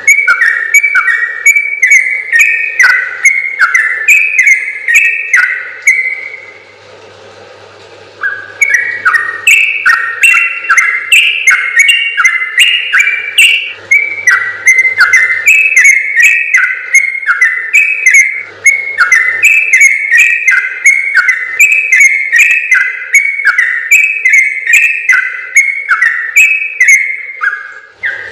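Yellow-vented bulbul (trucukan) singing a long, fast run of bubbly whistled notes, a continuous 'ropel' song. It breaks off about six seconds in and picks up again about two seconds later.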